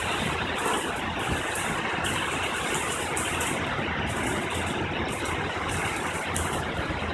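Heavy thunderstorm rain falling steadily, an even hiss without distinct claps.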